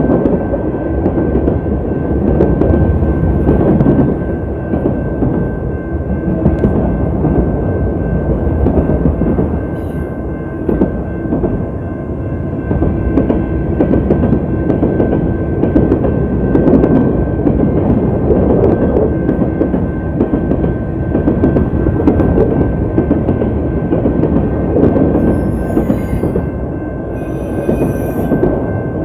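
Freight train rolling past close by over a road crossing: a loud, steady rumble of wheels and cars, with a thin steady high tone running through it. The sound is distorted because water got into the phone's microphone.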